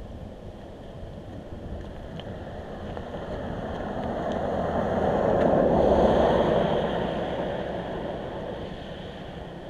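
A road vehicle passing by: its tyre and engine noise swells over a few seconds, is loudest about six seconds in, then fades away.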